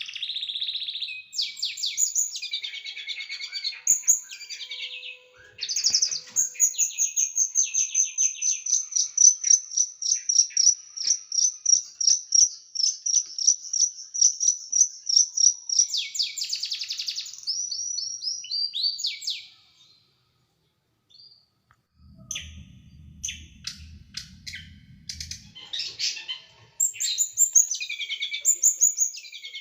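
Small songbird singing rapid, harsh 'shot' phrases (tembakan) of quick, high, clipped notes, including a long run of evenly repeated notes. The song breaks off briefly about two-thirds through, a low hum appears, and then the fast notes resume.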